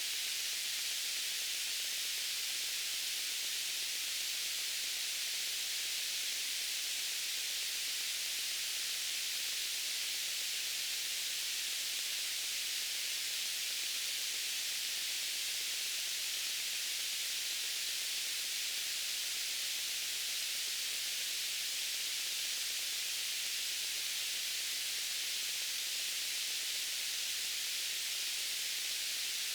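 White noise: a steady, even hiss, bright and high, that does not change.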